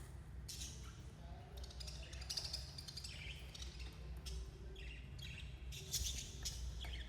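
Budgerigars chirping and chattering in irregular bouts of quick high chirps, over a steady low hum.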